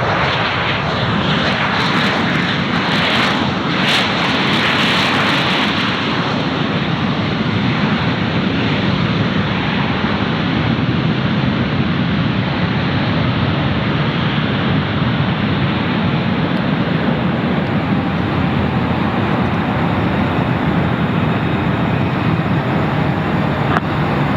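A jet airliner's engines running loud and steady. It is a dense, even roar with no speech over it, and a few bursts of higher hiss a couple of seconds in.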